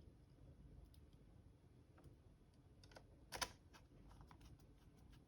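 Faint, scattered light clicks and taps of small screws and laptop parts being handled, with one sharper click about three and a half seconds in.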